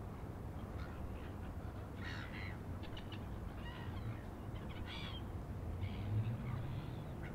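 Faint outdoor ambience: a steady low rumble with a few short bird calls scattered through it.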